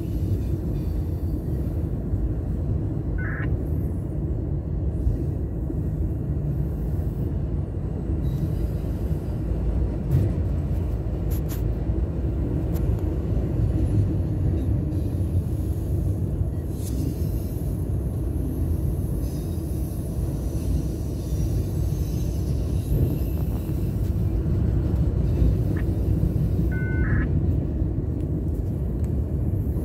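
Empty autorack freight cars rolling past at steady speed: a continuous low rumble of wheels on rail. A brief high-pitched squeal comes about three seconds in and again near the end.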